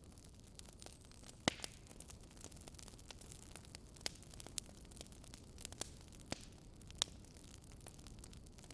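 Faint crackling wood fire: a low steady hiss with irregular sharp pops and snaps, about half a dozen clear ones.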